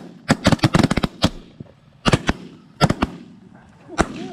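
Several hunters' shotguns firing at geese: a rapid, overlapping volley of about eight shots in the first second, then pairs of shots about two and three seconds in, and a last single shot about four seconds in.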